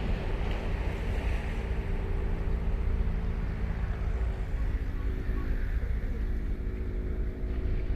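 Ocean surf washing on a sandy beach, its hiss stronger in the first few seconds, over a deep steady rumble. A steady low engine hum runs beneath it.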